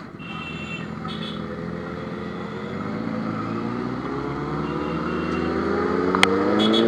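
Superbike engine pulling steadily higher in pitch and getting louder as the motorcycle accelerates in one long, unbroken run. A few short high beeps come about half a second in and again near the end.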